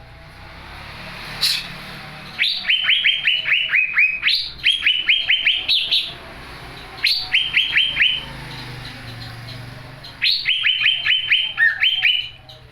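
Young greater green leafbird (cucak ijo) singing three phrases of rapid, repeated whistled notes at about five a second, the pitch stepping slightly down within each phrase. A single sharp click comes just before the first phrase.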